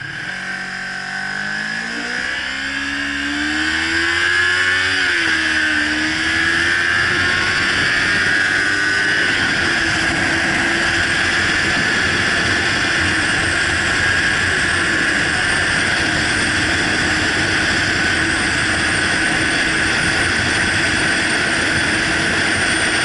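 Motorcycle engine accelerating hard, its pitch climbing, dropping briefly at a gear change about five seconds in, then holding steady at speed under a loud, even rush of wind noise.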